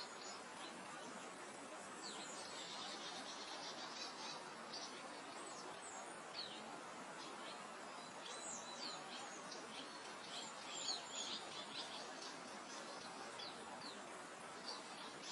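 Small birds chirping with many short high calls and a few quick trills, over a steady soft hiss of wind through grass.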